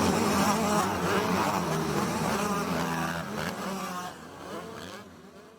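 Several motocross bike engines revving at once, their pitches rising and falling as the riders work the throttles. The sound fades away near the end.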